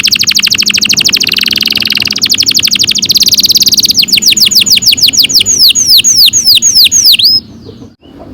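Domestic canary singing a long rolling trill of very fast repeated high notes. About four seconds in it switches to a slower run of downward-swooping notes, which stops suddenly near the end.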